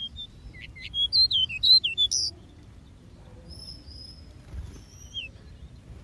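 Aviary songbirds calling: a loud, quick run of chirping, warbling notes about a second in, then fainter, higher chirps later.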